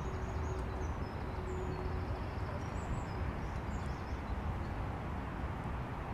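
Small birds chirping in short high notes over the first four seconds or so, over a steady low rumble.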